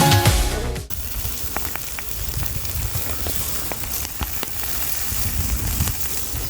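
Chicken steaks sizzling on a grill: a steady hiss with scattered crackles and pops. Background music cuts off abruptly about a second in.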